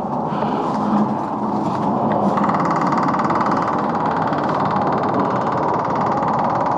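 Minneapolis Moline HEB 605-cubic-inch engine on a cold start at 9 degrees, turning over. About two seconds in, the sound steps up into a fast, even running beat.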